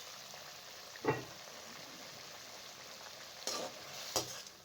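Potatoes and spices sizzling in oil in a kadhai, with a spoon knocking against the pan about a second in and a few clinks near the end.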